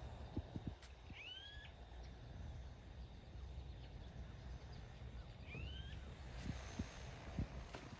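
A bird calling twice, about four seconds apart: each call a short note sweeping upward, then levelling off, with a fainter lower note after it. Underneath is a low steady rumble with a few soft knocks.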